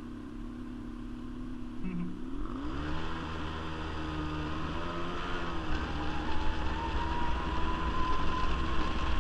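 Quad bike (ATV) engine idling, then revving up about two and a half seconds in and running under load, its pitch slowly climbing as it pulls away.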